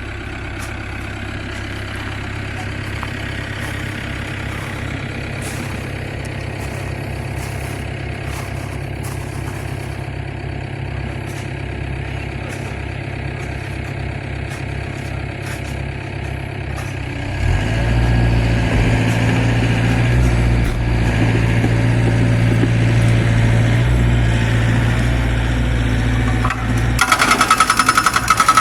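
Zoomlion excavator's diesel engine running steadily, then revving up louder about two-thirds of the way through. Near the end its hydraulic breaker starts hammering with fast, even blows.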